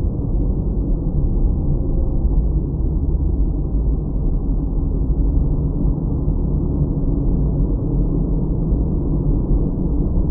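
Steady low rumble of a car's road and engine noise heard from inside the cabin by a dash cam, dull and muffled with no high end.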